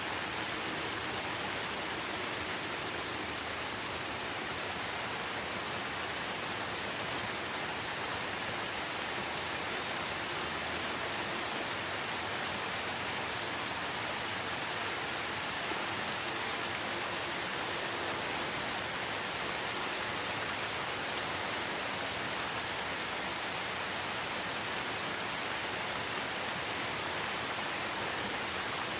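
Steady, even rain falling on foliage and ground in a rainforest, a continuous hiss with no single drops or thunder standing out.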